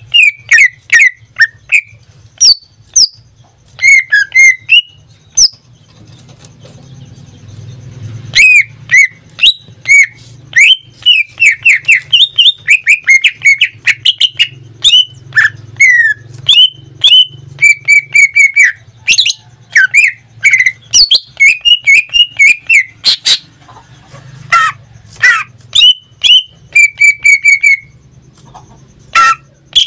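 Caged cucak ijo (green leafbird) singing in full voice: a fast, varied run of loud whistles, chips and trills, with a pause of a few seconds early on and stretches of rapidly repeated notes. A faint steady low hum lies underneath.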